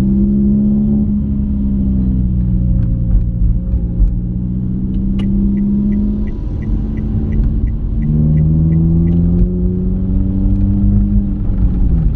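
Toyota Calya's 1.2-litre four-cylinder engine under way, heard inside the cabin, its pitch climbing and then dropping sharply at a gear change about eight seconds in before climbing again. From about five seconds in, a turn signal ticks about three times a second for roughly four seconds.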